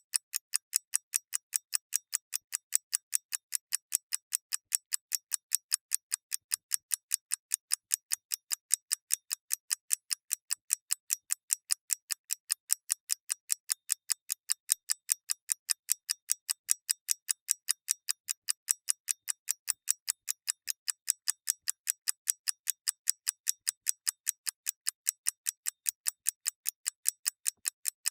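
Clockwork mechanism ticking steadily: crisp, even, high-pitched ticks, several a second, with no other sound.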